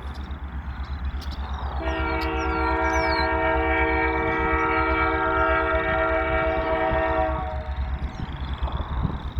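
CP Rail locomotive 2304's air horn sounding one long blast of about five and a half seconds, several notes at once in a chord, over the steady low rumble of the train.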